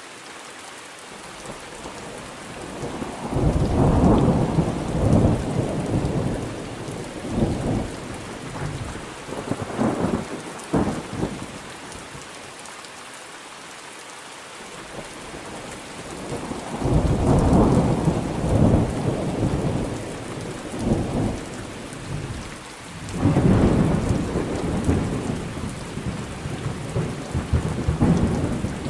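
Steady rain with thunder rolling in three long rumbles, starting about three seconds in, about sixteen seconds in and about twenty-three seconds in.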